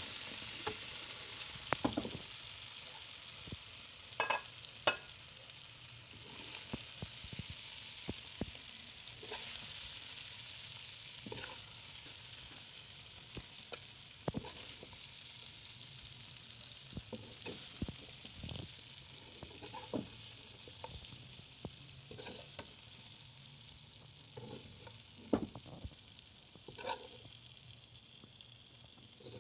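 Chicken pieces sizzling in a hot wok, the sizzle slowly dying down as the pan is emptied. Scattered sharp knocks and scrapes come as the pieces are stirred and lifted out.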